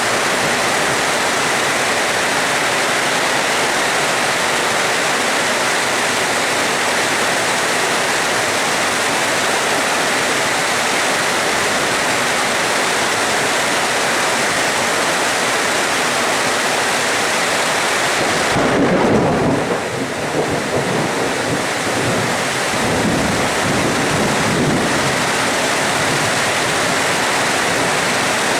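Steady rain hiss. About two-thirds of the way through, a peal of thunder comes in as a deep rumble and rolls on for several seconds before fading back under the rain.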